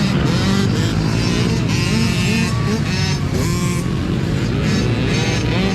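A pack of mini dirt bikes racing together, several small engines revving hard, each rising in pitch and dropping again as it shifts up, over and over.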